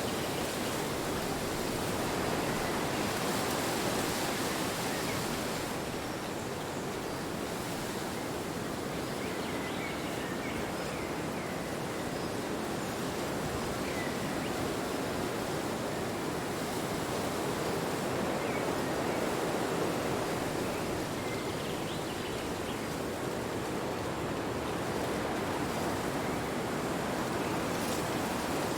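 Steady rushing wind, swelling and easing slowly every several seconds.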